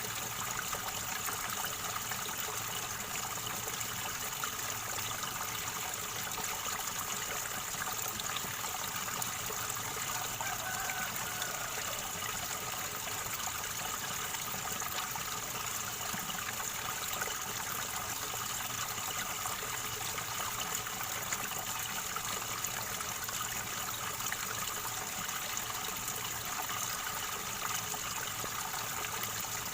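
River water flowing and gurgling steadily over stones, an even rushing with no breaks.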